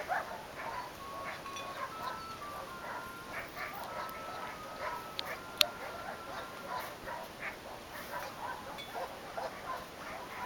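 Dogs barking in quick, repeated yips, with a drawn-out steady whine at times, and one sharp click a little past halfway.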